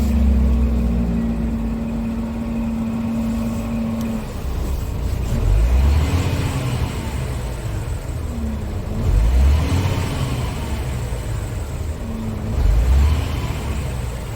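Scania R tractor unit's diesel engine running steadily, then rising and falling in pitch three times, about every three and a half seconds.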